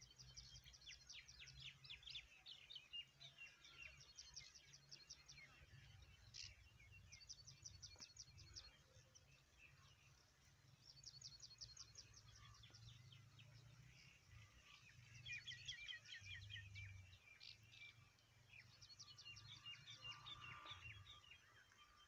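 Faint birdsong of small birds chirping, with short, rapid high trills repeating every few seconds.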